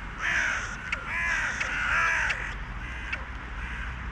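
Several crows cawing, calls overlapping in quick succession and loudest in the first two seconds, with a few sharp clicks among them.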